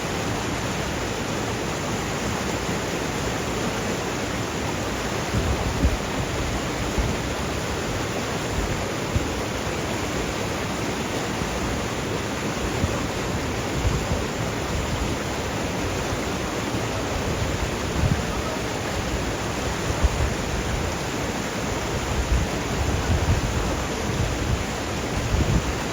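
Steady rush of flowing stream water, with occasional low buffets of wind on the microphone.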